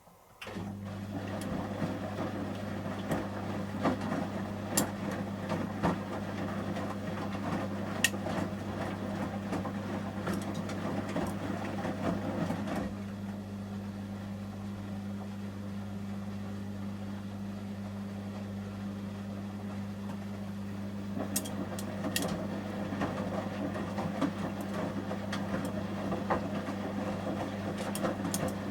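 Samsung front-loading washing machine's drum motor starting up and turning the drum during the heating stage of a 30 °C shirts wash, with a steady hum. The wet laundry swishes in the drum with scattered small clicks and knocks, quieting for a stretch in the middle before picking up again.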